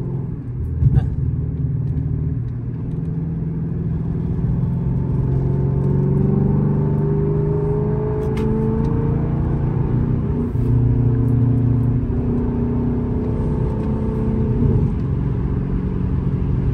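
Dodge Charger R/T's Hemi V8 heard from inside the cabin at freeway speed, its engine note climbing steadily as it accelerates, then dropping about ten seconds in and again near the end. A sharp click comes about a second in.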